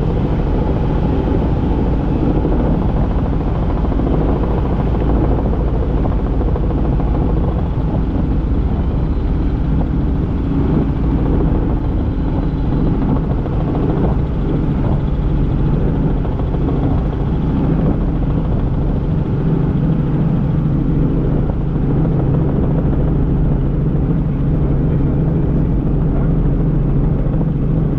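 Helicopter in flight, heard from inside the cabin: a steady, loud drone of the engine and rotor that does not change.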